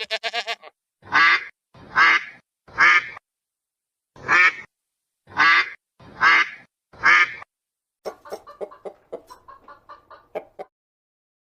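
A sheep's bleat ends right at the start; then a bird gives seven loud, harsh calls of about half a second each, in a group of three and a group of four, followed near the end by a quicker run of short, softer calls.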